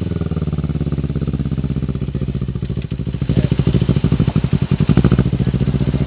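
Kawasaki Ninja motorcycle engine running with an even pulsing beat, growing louder for a couple of seconds about midway.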